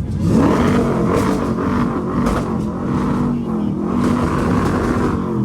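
A car engine revs up just after the start, then holds at steady high revs.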